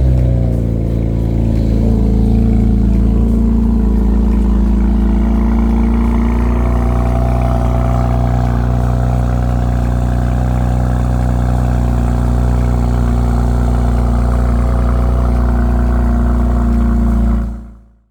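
BMW 335's inline-six engine running steadily at an even speed, a constant low drone, fading out near the end.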